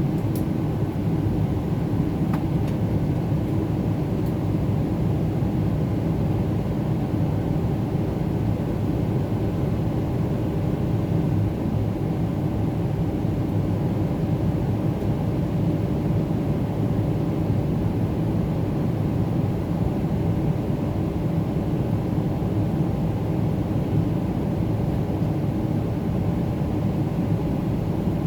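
Steady low rumble inside the cabin of a Boeing 777-300ER climbing out: engine and airflow noise, unchanging in level, with a few faint steady tones above it.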